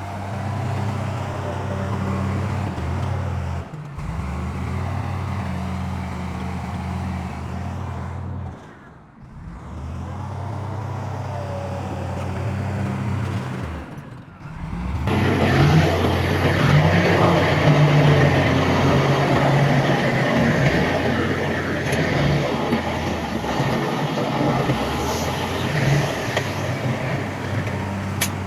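Diesel engines of earthmoving machinery (bulldozer and dump trucks) running with a steady low drone. The sound cuts off briefly about 4, 9 and 15 seconds in. After about 15 seconds it is louder, with more rattle and hiss above the engine.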